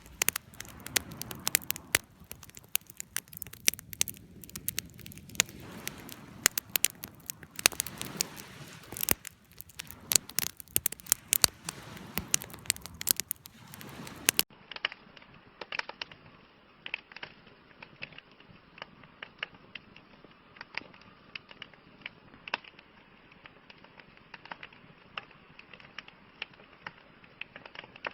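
Burning wood in a campfire crackling and popping, a steady stream of sharp snaps over a low rush of flame. About halfway through the sound turns duller and thinner, with fewer, quieter pops.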